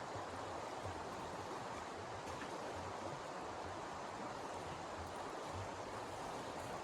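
Steady rushing wind, with an uneven low rumble underneath.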